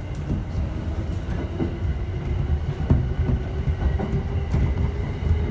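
JR E231-1000 series commuter train running between stations, heard from inside the passenger car: a steady low rumble with a few faint steady tones and scattered short clicks from the rails.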